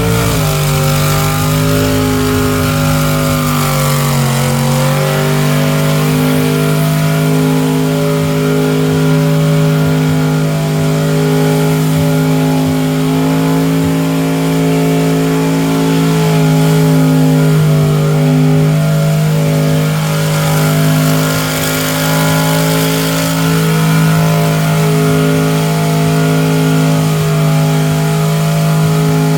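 A truck engine running hard at high, nearly constant revs. Its pitch dips briefly about four seconds in and otherwise holds steady.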